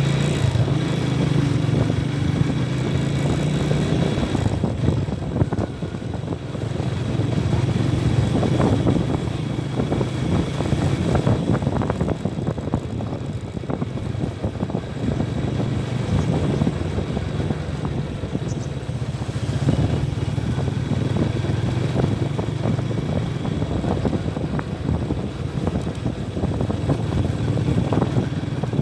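Honda Tiger motorcycle's single-cylinder four-stroke engine running as it rides slowly along a lane, the throttle easing off briefly a few times and opening again.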